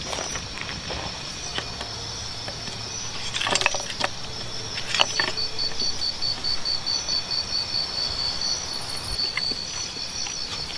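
Insects chirping steadily in a high, pulsing rhythm of about four chirps a second, with a couple of sharp clicks near the middle.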